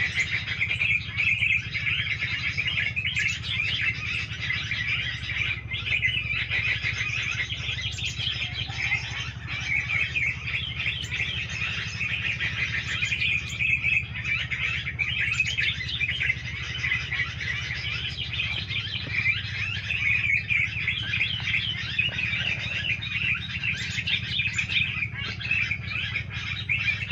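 Dense, unbroken chattering and chirping of many small songbirds, with a steady low hum underneath.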